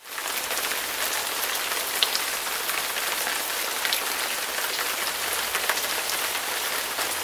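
Steady rain falling on a hard surface: a dense hiss with scattered sharp drop ticks, starting and cutting off abruptly.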